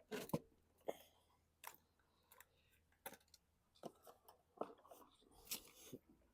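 Faint, scattered clicks and knocks of metal hand tools being handled, a socket and breaker bar being fitted to snug up the engine's head bolts, with a short scrape near the end.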